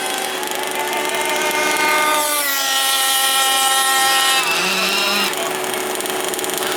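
Small two-stroke engine of a gas-powered RC car running at high revs with a buzzy whine, its pitch dropping about two seconds in and again about four and a half seconds in.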